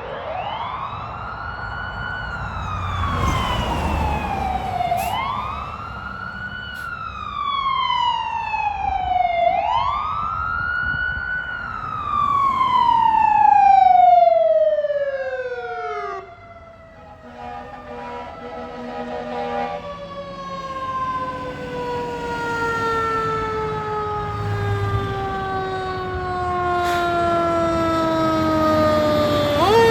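Fire engine siren wailing. It winds up quickly and falls away slowly three times, then sinks in one long slow glide through the second half before rising again at the very end, with a low truck rumble underneath.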